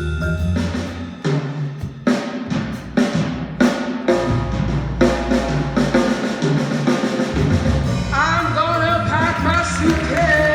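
Small live band: a drum kit plays a stretch of busy hits and fills over bass guitar notes. About eight seconds in, a singer's voice enters with sliding notes.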